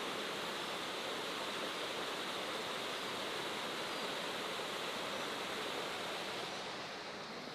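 Steady roar of water falling at Shifen Waterfall, easing off a little near the end.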